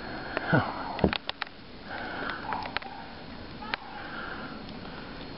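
Footsteps crunching through deep snow, with sniffing breaths and a few sharp clicks, the loudest about a second in.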